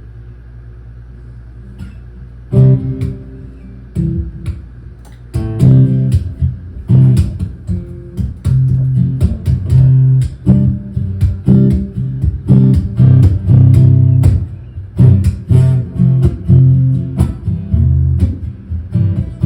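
Guitar intro to a song: after a low hum, two single chords ring out, then the guitar settles into a steady rhythm of chords.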